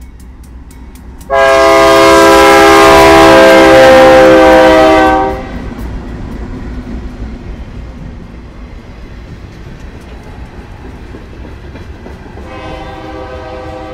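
Freight train passing close by: the lead locomotive sounds its horn in one long, very loud chord of several notes lasting about four seconds. Then the wheels of the passing tank cars rumble and clack steadily. Near the end the horn sounds again, quieter.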